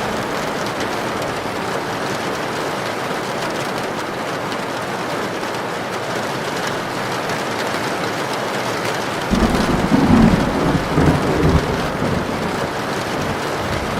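Heavy rain falling steadily. About nine seconds in, a low rumble of thunder breaks in suddenly and rolls on for a few seconds before easing.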